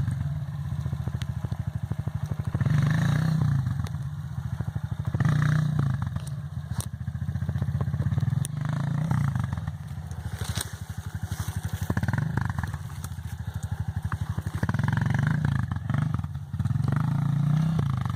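Trail motorcycle engine revving hard in repeated surges, then easing off, several times over, as a rider fights to get up a slippery muddy climb.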